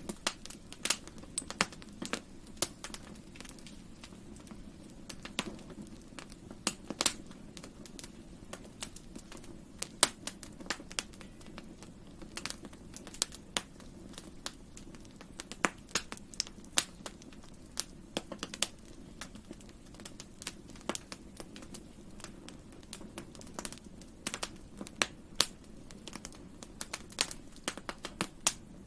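Campfire burning: irregular sharp crackles and pops of burning wood over a steady low rush of the flames.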